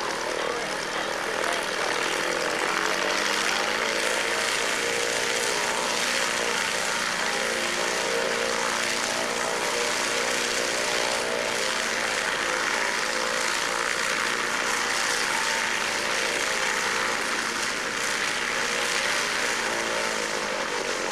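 Propeller aircraft engine running steadily over a wide rush of air noise, its pitch rising slightly near the start and dipping near the end.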